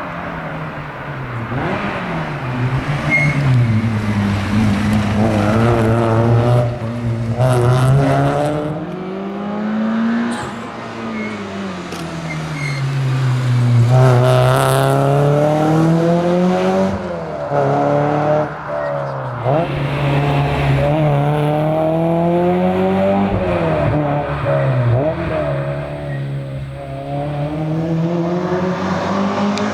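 Porsche 968 CS's 3.0-litre four-cylinder engine at full stage pace. The revs climb hard through the gears with quick breaks at each change, then drop away under braking, over and over.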